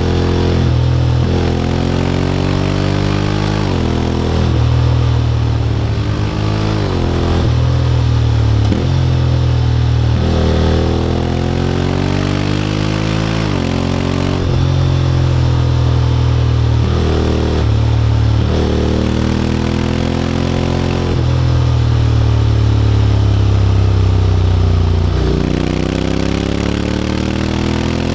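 Honda X-ADV 750's parallel-twin engine running through an SC-Project titanium slip-on exhaust while riding: the revs climb and fall again and again, with quick drops in pitch at the gear changes of its automatic DCT gearbox.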